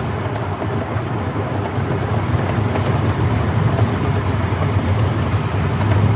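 Miniature park train running steadily along its track, a continuous low rumble of engine and wheels under a wash of rolling noise, heard from aboard.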